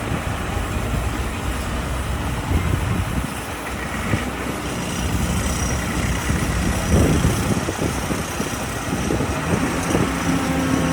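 Excavator's diesel engine working, a steady low rumble under dense, uneven mechanical noise.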